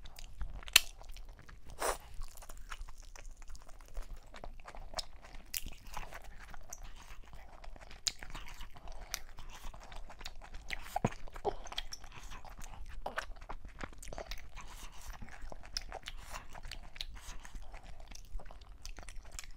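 Close-miked chewing and wet, sticky mouth sounds of a person eating fufu dipped in okra soup by hand, a steady run of small smacks and clicks.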